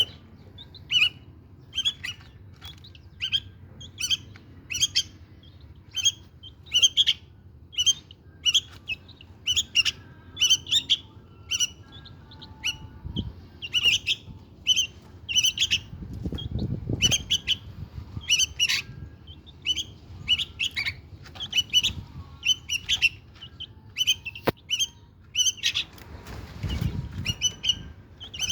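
Syrian bulbuls giving short, sharp chirping calls over and over, about one or two a second. There are two brief low rumbles, one about halfway through and one near the end.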